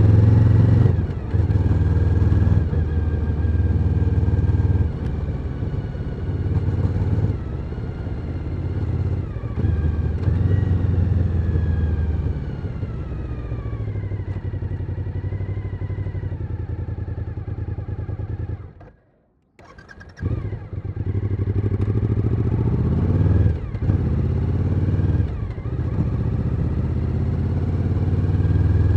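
Suzuki SV1000N's 90-degree V-twin engine running under way, with revs rising and falling through the gears and a long, slow fall in revs as the bike slows around the middle. The sound cuts out for about a second a little past halfway, then picks up again with the revs climbing.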